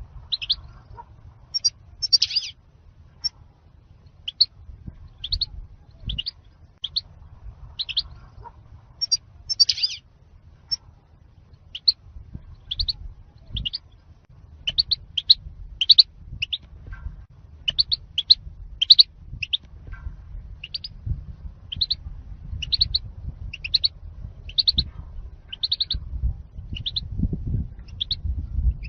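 European goldfinch calling: short, high chirps repeated every half second to a second, with a low rumble underneath.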